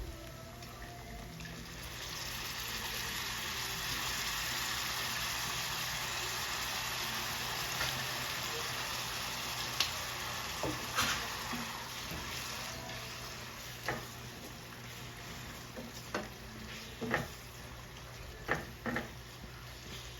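Food sizzling as it fries in a pan, the sizzle swelling about two seconds in. In the second half come several sharp clinks, a utensil knocking against the pan as the food is stirred.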